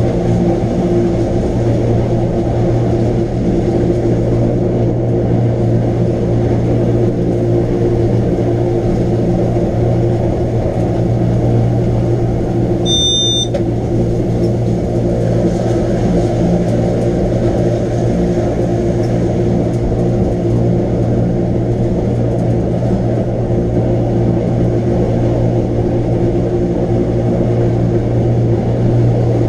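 Wengernalpbahn electric rack-railway train running steadily, a constant low drone with a strong even hum. A brief high beep sounds about 13 seconds in.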